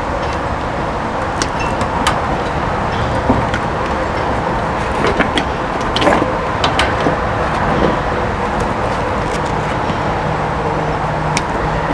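Wire cutters snipping through the water heater's 12-volt wires: a handful of sharp, scattered clicks over a steady background noise.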